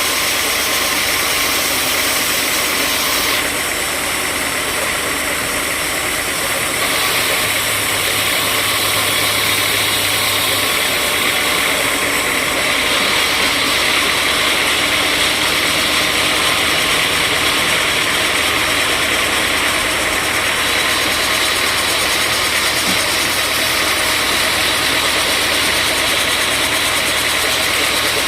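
Sawmill machinery running steadily with a continuous, dense mechanical hiss. The tone shifts slightly a few times, and a low hum joins briefly about a third of the way in.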